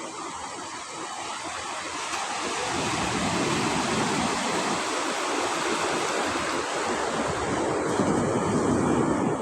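Sea waves breaking and washing onto the shore, a steady surf rush that grows louder from about two seconds in.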